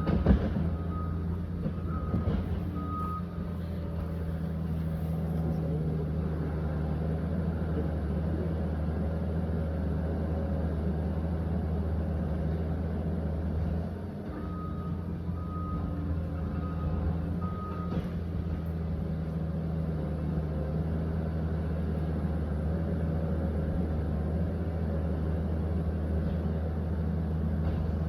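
Liebherr 744 crawler dozer's diesel engine running steadily under load, with its reversing alarm beeping in two short runs of about four beeps each, one near the start and one around the middle.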